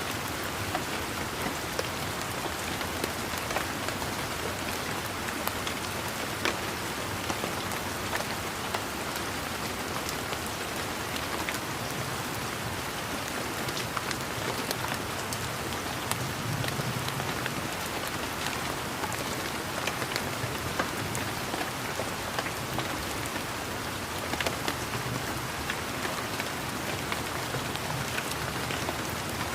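Steady rain falling, an even hiss dotted throughout with sharp ticks of individual drops striking close by.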